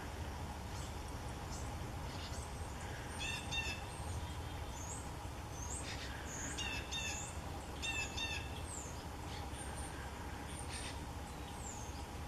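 Wild songbirds chirping and singing: short, high, slurred whistles scattered throughout, and a few quick chattering phrases, about three seconds in, again around six and a half, and again near eight seconds. Under them is a steady low background hum.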